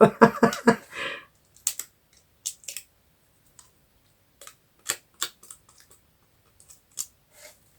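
Scattered light clicks and taps at irregular intervals, from paper-craft materials being handled and set down on a craft table.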